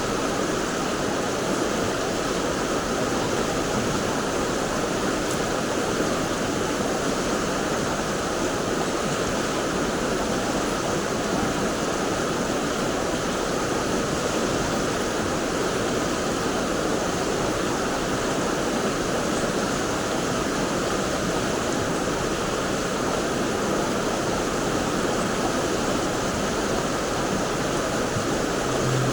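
Mountain stream rushing steadily over rocks, a constant wash of moving water.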